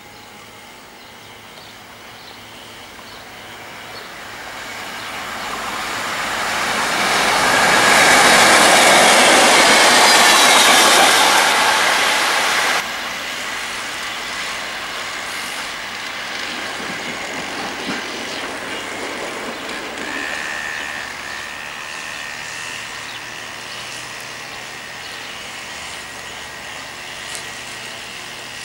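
A train approaching and passing close by, its rolling noise swelling to a loud peak with high-pitched wheel squeal. After an abrupt cut, steadier, quieter rail noise from a diesel-hauled train moving away, with a brief wheel squeal about two-thirds of the way through.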